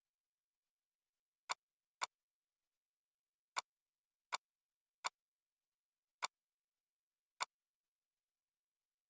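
Seven short, sharp clicks at irregular intervals, with dead silence between them.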